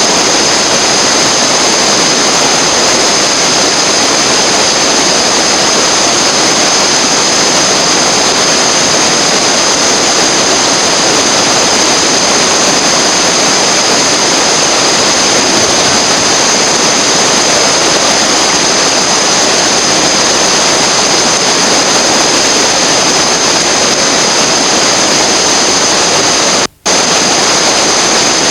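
Whitewater river rapids rushing in a steady, loud roar, dropping out for a split second near the end.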